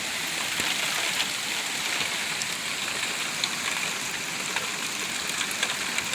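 Heavy rain falling steadily, an even hiss with scattered ticks of drops.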